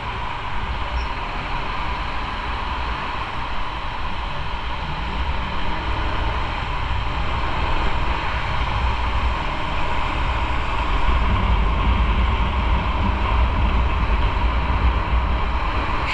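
Motorcycle riding at speed: a steady rush of wind over the microphone with engine and road rumble underneath, growing somewhat louder in the second half.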